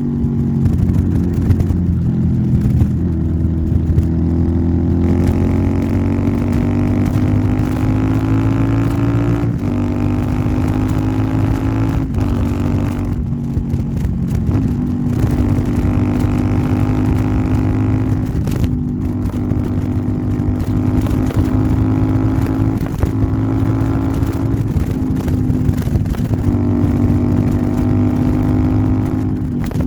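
Royal Enfield Interceptor 650 parallel-twin running through an aftermarket Nuke exhaust while riding. The engine note climbs in pitch and drops back several times as the bike accelerates and shifts gears.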